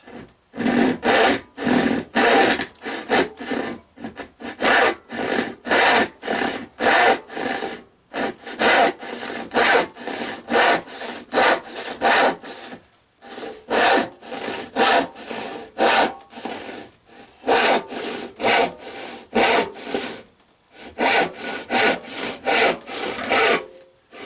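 Freshly restored Sandvik No 277 hand saw cutting through a wooden board, with steady back-and-forth strokes at about two a second and a few short pauses. The saw is cutting cleanly and easily.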